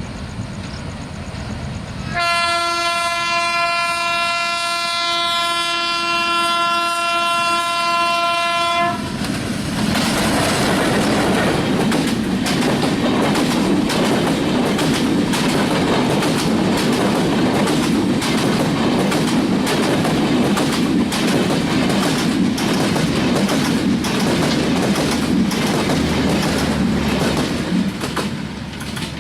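A diesel locomotive's horn sounds one long steady blast for about seven seconds. Then the express passenger train passes close by, its wheels clacking over the rail joints for nearly twenty seconds before it fades near the end.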